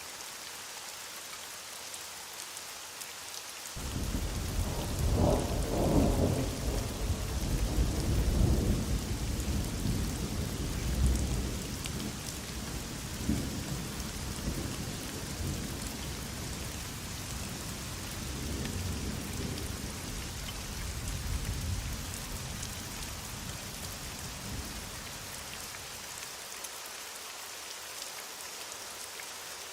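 Steady heavy rain hissing, with a long roll of thunder that breaks in suddenly about four seconds in, is loudest over the next several seconds, and rumbles on in fading waves until near the end.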